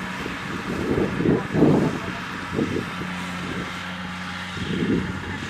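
Kubota DC-70 Plus combine harvester's diesel engine running under load with a steady hum, with a few short low swells of sound over it.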